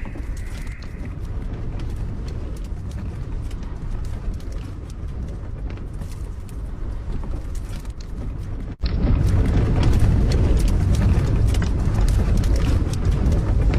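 Strong wind gusting against and rocking a small camper van: a steady low rumbling roar with scattered ticks and knocks. About nine seconds in it cuts abruptly to a louder stretch of the same wind noise.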